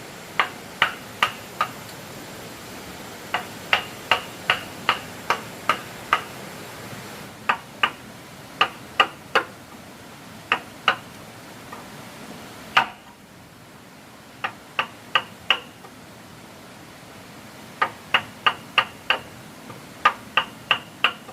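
Hammer blows on wood, probably driving nails, in quick runs of three to seven strokes about three a second, with short pauses between runs.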